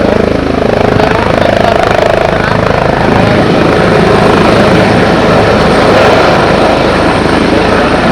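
Airbus H145 (BK117 D-2) helicopter running loud and steady: the rapid, even chop of its rotor over the whine of its turbine engines.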